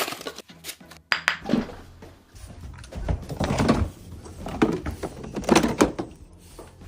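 Irregular knocks and thuds, handling noise of objects being moved about.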